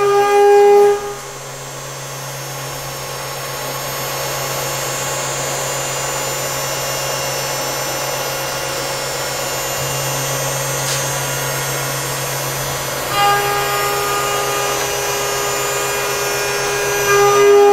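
Brother Speedio S500X1 CNC machining centre milling an aluminium block. A steady high whine about the first second gives way to a steady rushing machining noise over a low hum, and the whine returns about two-thirds of the way through, louder near the end.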